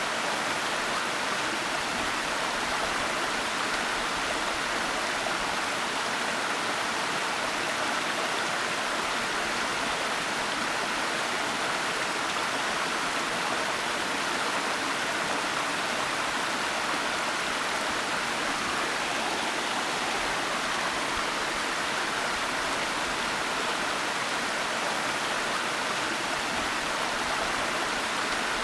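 Waterfall: water pouring and splashing in a steady, unbroken rush, brightest in the middle range, with no change in level.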